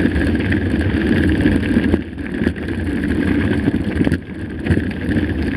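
Wind rumbling on the microphone of a mountain bike riding over rocky ground, with occasional knocks from the bike jolting on stones. The tyres are pumped too hard, so they bounce over the rocks.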